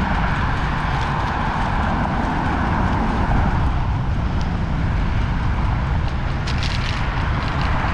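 Steady wind rumble on an action-camera microphone and tyre noise from a bicycle being ridden, with a few light clicks near the end.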